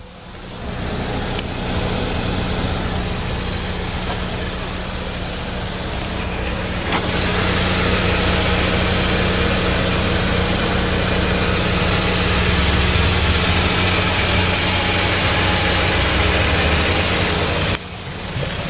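A motor vehicle's engine running steadily, getting louder about seven seconds in and dropping off near the end.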